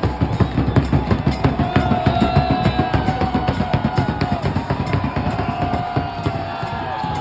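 Supporters' section drums beating a fast, steady rhythm, with crowd voices chanting over them.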